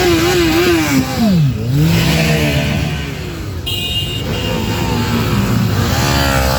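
Motorcycle engines revving and passing close by. About a second and a half in, one engine's pitch drops steeply as it goes past, and near the end another engine revs up, rising in pitch.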